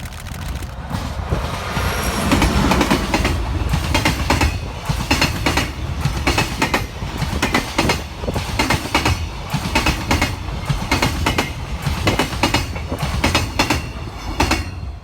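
Freight train of container wagons rolling past at speed, a steady low rumble with the wheels clacking over the rail joints again and again; it builds up over the first couple of seconds.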